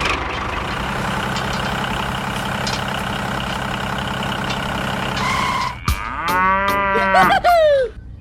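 A steady engine-like drone for about six seconds, then a cow moos once: one long call that drops in pitch at the end.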